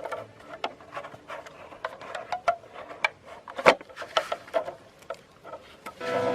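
Irregular light clicks and taps, with one sharper knock about midway. Music with sustained notes comes in near the end.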